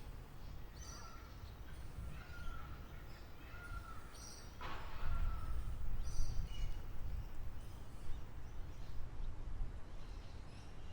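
Wild birds calling outdoors: a string of short calls, some lower and harsher and some high chirps, over a low rumble that grows louder about halfway through.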